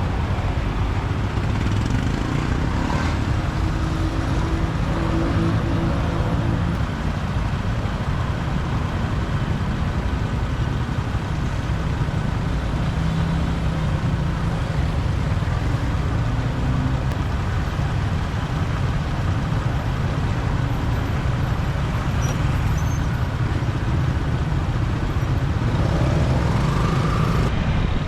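Motorbike riding in city traffic: steady engine and road noise with other vehicles around it, and a short rising tone near the end.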